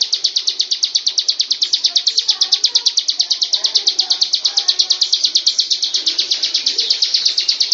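Bar-winged prinia singing: one long, fast run of the same sharp, high note repeated about ten times a second without a break.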